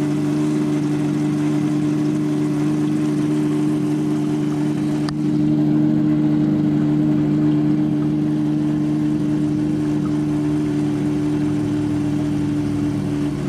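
Steady electric pump hum that neither rises nor falls, from the drag car's electric fuel and water pumps running with the engine not yet started. A single sharp click comes about five seconds in.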